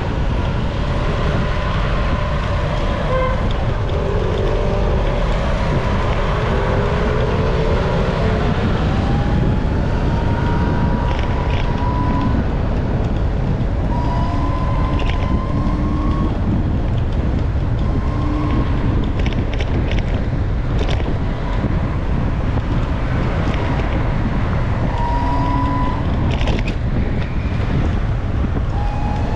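Heavy wind buffeting the microphone while riding through traffic. Engines of passing vehicles are heard through it, several rising briefly in pitch as they speed up.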